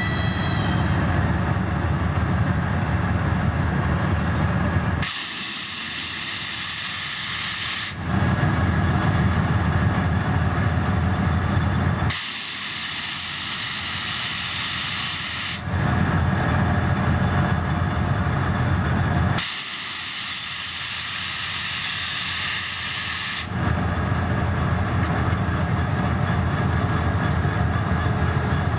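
Train noise: a moving train's low rumble alternates every few seconds with stretches of steady high hiss, each change coming abruptly.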